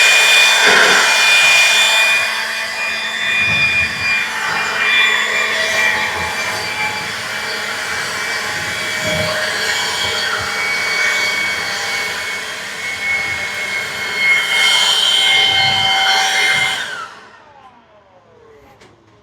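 Cordless leaf blower running at full speed with a high whine, blowing dust off metal roof panels. It is switched off near the end and spins down with a falling pitch.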